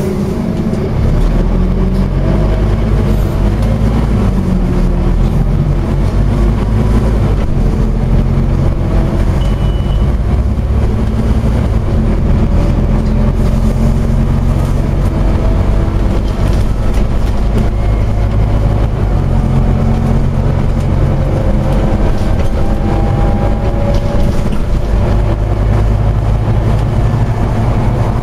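Scania OmniCity double-decker bus running on the road with a steady diesel engine drone. The engine's deep note strengthens about a second in, and later a faint whine climbs slowly in pitch as the bus gathers speed.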